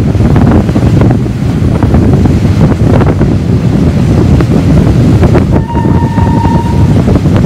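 Wind buffeting the microphone over the rumble and scattered clicks of a historic steam-hauled train's carriages running on the rails. About six seconds in, a single steady whistle blast lasting about a second.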